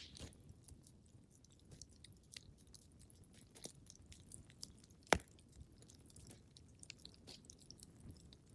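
Wood fire crackling in a fireplace: scattered small snaps and ticks over a faint low rumble, with one loud pop about five seconds in.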